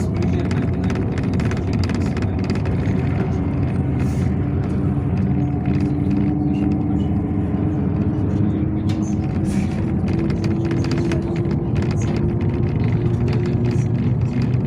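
Yutong ZK6118HGA city bus driving, heard from inside the passenger cabin: a steady engine and drivetrain drone whose pitch shifts a little, with frequent small rattles from the body.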